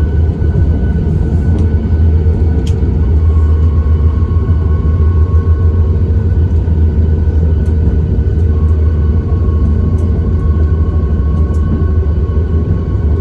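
Cabin noise inside a Boeing 737 MAX 8 over the wing: a loud, steady rumble from its CFM LEAP-1B engines and airframe, with faint steady whining tones above it.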